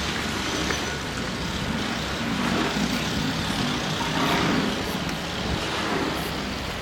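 Steady motor vehicle noise: an engine running under a continuous wash of road noise.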